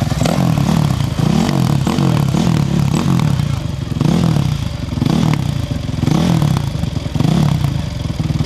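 Off-road racing motorcycle engine running hard, its pitch rising and falling about twice a second as the throttle is worked.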